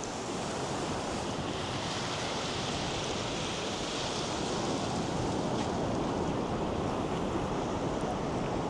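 North Sea surf breaking and washing up the beach, a steady wash of noise with one wave swelling about two to five seconds in.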